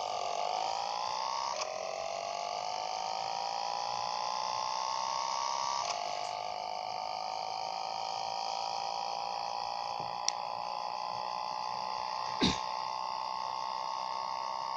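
Yamaha XJ6's inline-four engine pulling through the gears: its pitch rises, drops sharply at upshifts about one and a half and six seconds in, then holds nearly steady at cruising speed. Two brief clicks, about ten and twelve seconds in.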